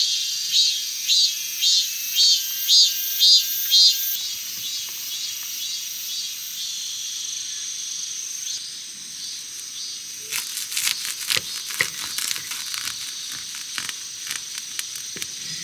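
Insects calling in loud rhythmic pulses, about two a second, over a steady high insect drone that fades after the first few seconds. From about ten seconds in, irregular crinkling clicks and crackles come through.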